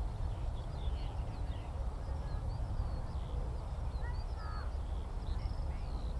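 Skylark song: a continuous high twittering and warbling of quick chirps. About four seconds in, another bird gives a short, lower harsh call. A steady low rumble runs underneath.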